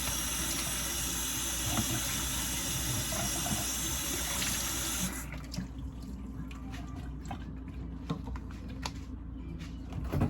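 Cold water running to fill a drink for about five seconds, then cut off. A few light knocks follow.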